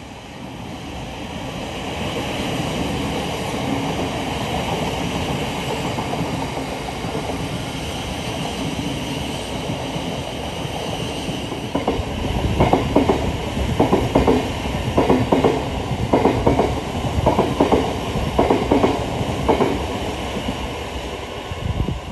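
Thameslink Class 700 electric multiple unit passing, with a steady rumble that builds over the first couple of seconds. From about twelve seconds in, its wheels clatter rhythmically over the track in groups of clicks about once a second, then fade just before the end.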